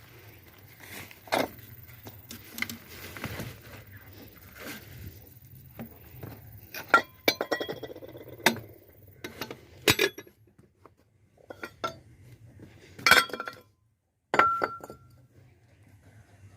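Metal parts and tools clinking and clanking as they are handled and knocked together, in a scattered string of sharp strikes; one strike near the end rings briefly with a clear note.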